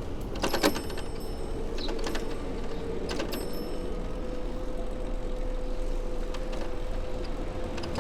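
Bicycle ride on a wet city street: steady rolling noise and low rumble with a steady hum, broken by a few sharp clicks and rattles from the bike, the loudest just under a second in.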